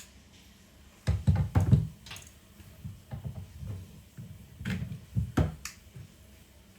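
A run of irregular knocks and bumps, as of objects being handled and set down, loudest about a second in and again around five seconds.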